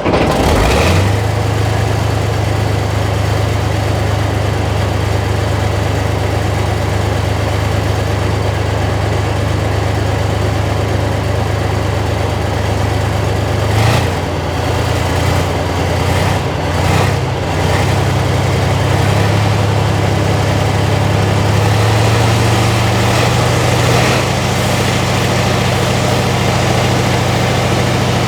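T-72M1 tank's V-46 V12 diesel engine running just after starting, a deep steady idle. Its speed wavers briefly about halfway through, then settles a little higher.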